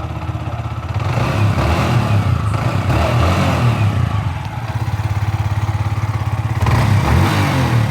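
Yamaha R15 V4's single-cylinder engine idling, revved up twice: once about a second in for a few seconds, and again near the end.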